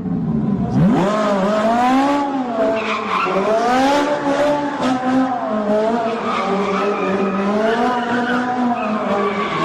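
Racing car engine revving hard: its pitch climbs sharply about a second in, then wavers up and down at high revs.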